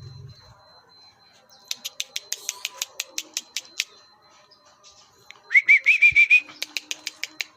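Pied bushchat (decu) calling: a quick run of sharp ticking notes, about five a second, then a short wavering whistle among more ticks about two-thirds of the way in.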